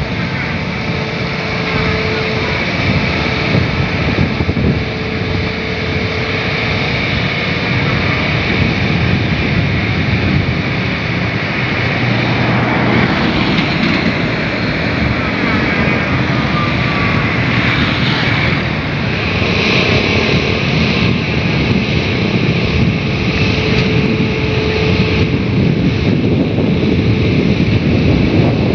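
Steady engine noise from heavy machinery or motor craft, with wind buffeting the microphone.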